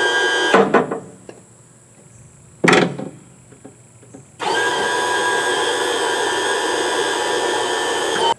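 Small electric power-tool motor running at a steady whine, switched off abruptly about half a second in. A sharp knock follows, then the motor runs steadily again for about four seconds and stops suddenly near the end.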